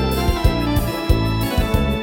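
Electronic keyboard playing chords over a repeating bass line, in an organ-like voice.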